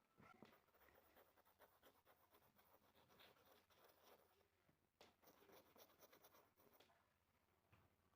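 Near silence, with faint rapid scratching and rubbing and a light click about five seconds in.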